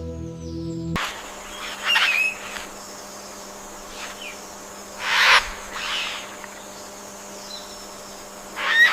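Birds calling: about five separate harsh calls, the loudest about five seconds in, over a steady faint hum. Soft ambient music cuts off about a second in.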